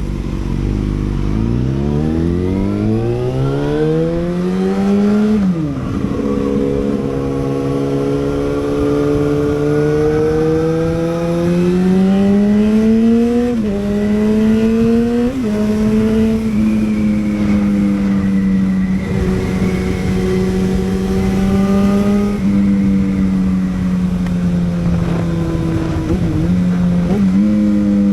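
Yamaha FZ6N's inline-four engine through a Beowulf exhaust with the dB killer removed, loud and open. It rises steeply in revs, drops sharply as if on an upshift, climbs and drops twice more, then holds a steady note.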